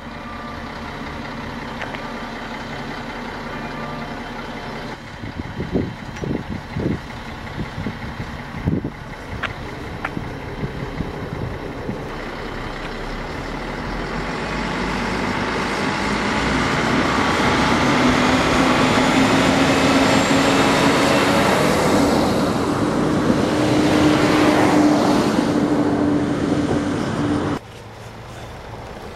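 Stadler RegioShuttle diesel railcar idling with a few short knocks, then its diesel engines rise in pitch and loudness as it pulls away; the sound cuts off suddenly near the end.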